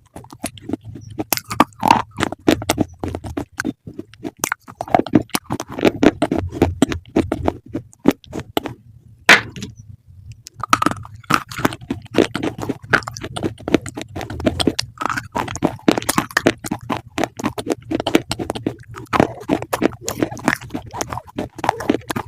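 Close-miked crunchy chewing: a person biting and chewing crisp food, with dense irregular crackles and crunches and a short pause about ten seconds in.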